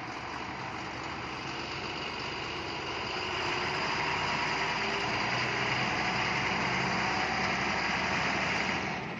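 Diesel engine of a 2017 Ashok Leyland 3718IL heavy cargo truck running steadily, getting somewhat louder about three and a half seconds in.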